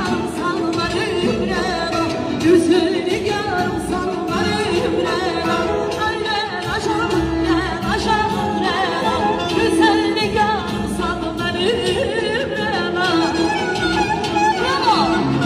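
A vocalist sings a melismatic, heavily ornamented melody over a steady instrumental backing in an Azerbaijani song.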